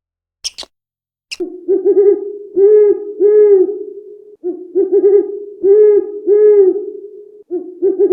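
A bird's low hooting call, a run of arched notes over a steady hum, given in three repeated phrases about three seconds long, starting a little over a second in. Two sharp clicks come just before it.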